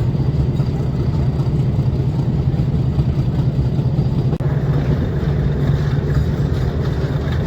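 Steady low rumble of a metre-gauge train hauled by a YDM-4 diesel locomotive, heard from aboard.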